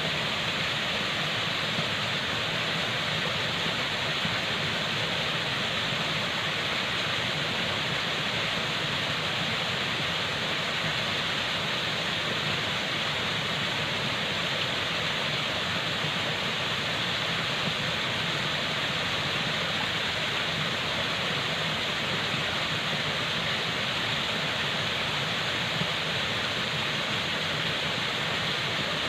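Falling water rushing steadily, an even, unchanging hiss with most of its weight in the upper middle range, like a waterfall.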